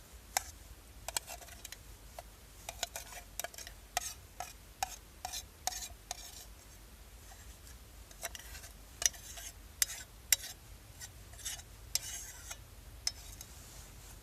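A spoon scraping and clinking against a pan, in irregular short scrapes and taps, as fried onion, bacon and garlic are spooned out onto pasta.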